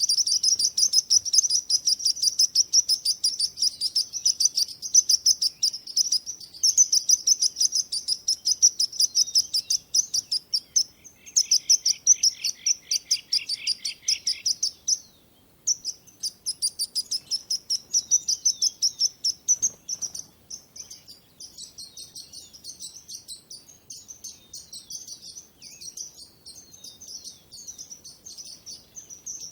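Many small songbirds chirping rapidly and continuously in high, dense twitters. A lower, fast trill joins at about eleven seconds and runs for about three seconds. The chorus stops for a moment soon after, then goes on more softly through the last third.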